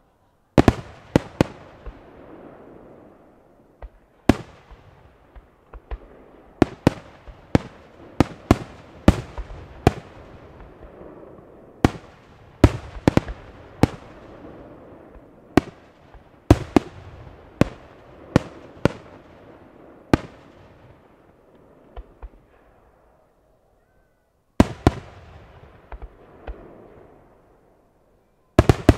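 Aerial firework shells bursting overhead: an irregular run of sharp bangs, often several close together, each trailing off in a rolling echo, with a brief lull about three-quarters through.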